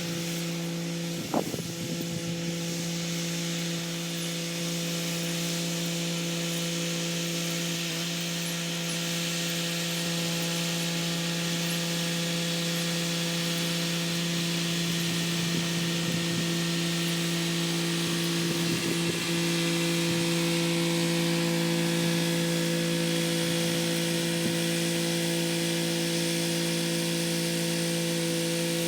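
Kubota SL35 tractor's diesel engine running at a steady working speed while pulling its rotary tiller through the soil, a constant low engine hum over the even noise of the tiller.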